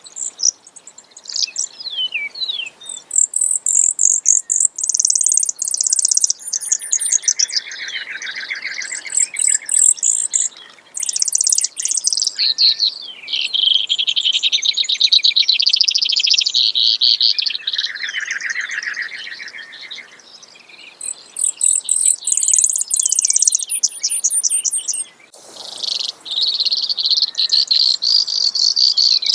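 Brewer's sparrow singing: a long run of fast trills and buzzy rattles that keep switching between higher and lower pitches, with a short click about three-quarters of the way through.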